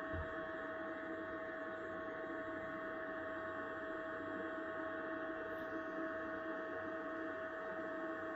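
Steady electrical hum with a constant mid-pitched whine and several fainter steady tones, from the generator-and-inverter setup running under load while the generator feeds roughly 6,000 watts into the inverter.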